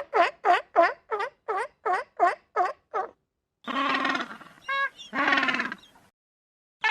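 Animal calls: a quick run of about ten short, repeated calls at about three a second, like a fowl. After a short pause, two longer buzzy calls follow, with a brief clear call between them.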